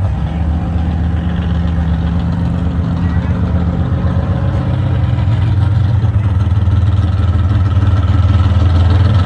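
A vehicle's engine running close by: a steady low drone that grows a little louder toward the end.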